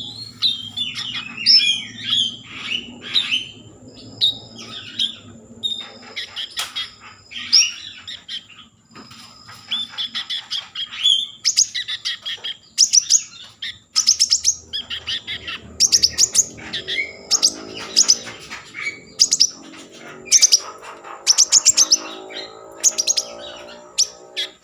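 A konin songbird singing continuously and loudly in a rapid, varied song of sharp chirps and quick stuttering trills. It is the kind of full song that keepers play to rouse other konin into singing.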